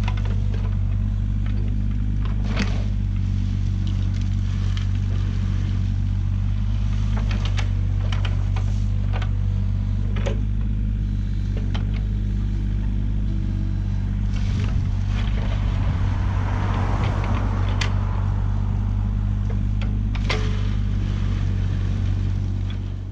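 Heavy-equipment diesel engine running steadily while stone is spread, with scattered knocks and scrapes of rock against steel. The engine sound fades out at the very end.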